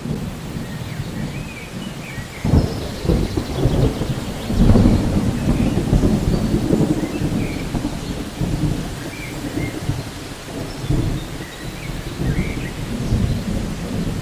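Rain falling steadily through a thunderstorm, with thunder: a sudden crack about two and a half seconds in, then a long low rolling rumble that swells near five seconds and slowly dies away in further rolls.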